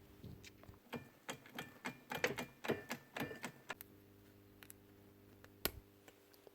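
A run of light clicks and taps from handling the new 6001 bearings and the polisher's spindle parts, then one sharper click near the end, over a faint steady hum.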